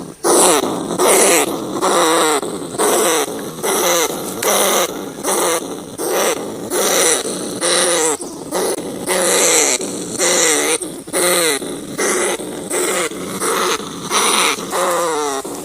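A rat calling: a steady run of short, pitched cries, one after another at a fairly even rhythm.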